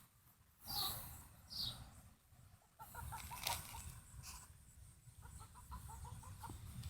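Chickens clucking softly in quick runs of short clucks, with a few brief high, falling chirps in the first two seconds.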